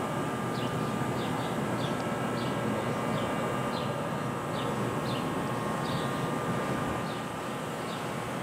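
A stationary NJ Transit electric commuter train standing at the platform, giving off a steady hum with faint constant whine tones from its onboard equipment. Short high chirps repeat every half second or so over it, typical of a small bird calling.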